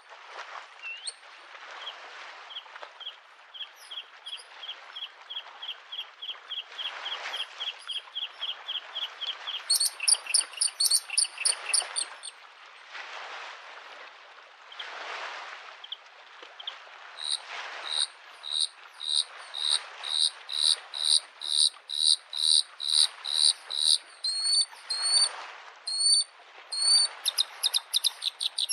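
Bluethroat singing in runs of quickly repeated sharp notes, a softer series at first, then louder, piercing repeated phrases from about ten seconds in. Small lake waves wash against the shore beneath, swelling and falling every few seconds.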